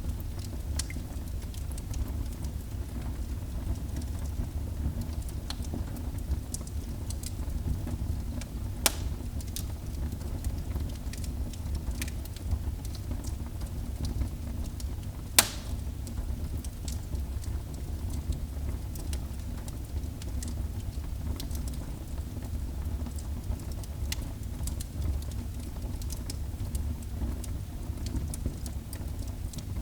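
Fire burning in a fireplace: a steady low rumble with scattered crackles and sharp pops, the two loudest about 9 and 15 seconds in.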